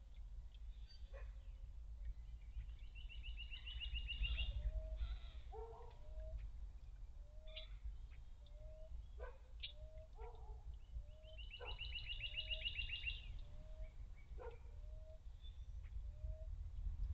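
Wild birds calling: two rapid trills of high notes, about three seconds in and again around the middle, over a run of short, lower notes repeated about every two-thirds of a second. A faint low rumble and a few scattered clicks lie underneath.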